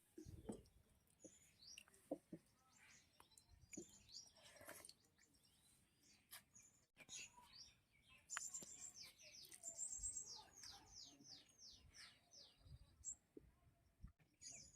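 Faint birdsong: scattered high chirps, with a quick run of short falling notes in the middle, and a few light clicks and knocks.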